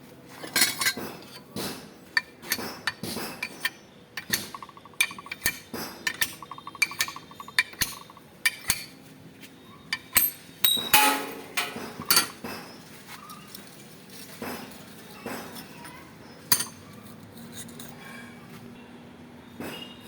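Metal tools and parts clinking and knocking in many irregular sharp strikes, as in hand work on a motorcycle rear shock absorber, with a quick run of fine ticks about four to seven seconds in.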